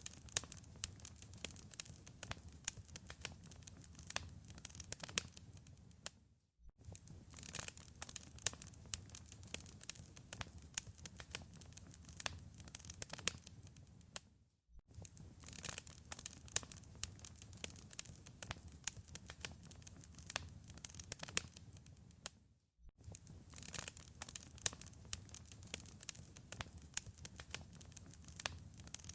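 Wood fire crackling, with dense sharp pops and snaps over a low rumble. The sound cuts out briefly about every eight seconds, three times, as the recording loops.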